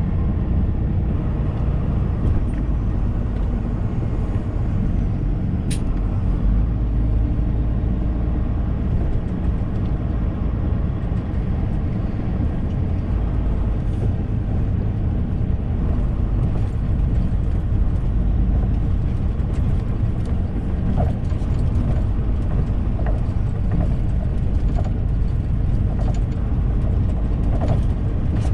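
Lorry engine and road noise heard from inside the cab while driving, a steady low drone, with a single sharp click about six seconds in.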